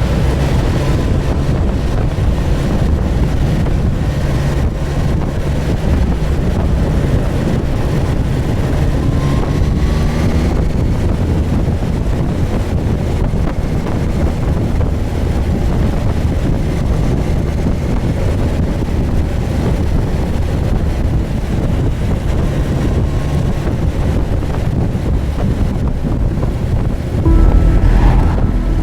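Suzuki GSX1250FA's inline-four engine running under way, buried in heavy wind noise on the microphone. Near the end it suddenly gets louder and deeper.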